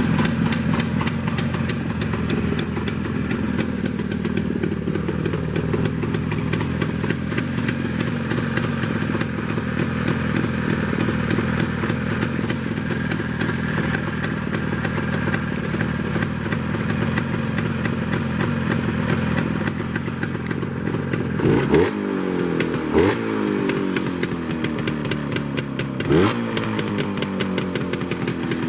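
Engine idling steadily, then revved briefly three times in the last third, each blip rising sharply in pitch and settling back to idle.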